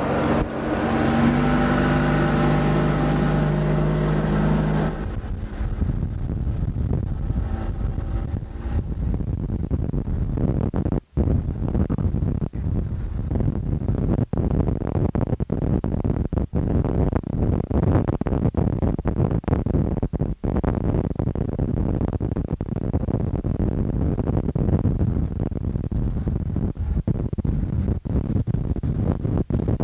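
A boat motor runs steadily, with a dense rushing noise of wind and water. The sound cuts out for an instant about eleven and twenty seconds in.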